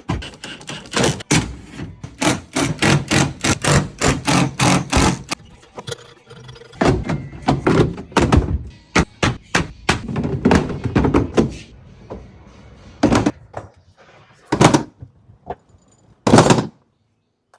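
A rapid series of knocks and thunks, hard objects striking and banging shut, followed by three separate heavy thuds near the end.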